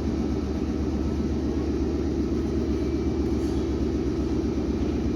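Steady low rumble and hum of a Meitetsu electric commuter train at the platform, with no sudden sounds.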